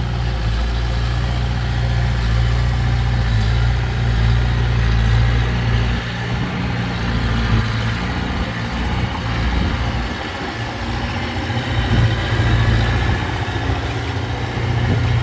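Heavy diesel engine of earthmoving machinery running steadily with a low hum. The deepest part of the rumble thins out about six seconds in.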